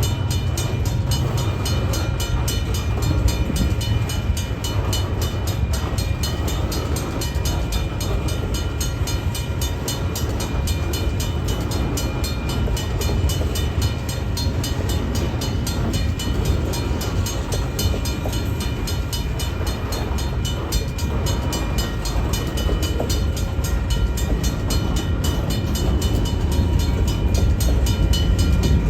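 Freight train rolling past: a steady heavy rumble of wheels on rail, with faint high steady tones over it, growing a little louder near the end.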